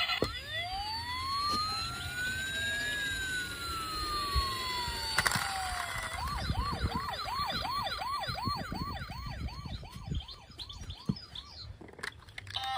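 Siren sounding: one long wail rising and then falling in pitch, then switching to a fast yelp of about three whoops a second that stops near the end.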